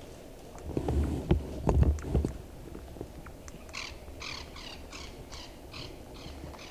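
A bird's harsh call, repeated in an even run of about ten notes that fades away. Before it, about a second in, come a few low thumps and rustles.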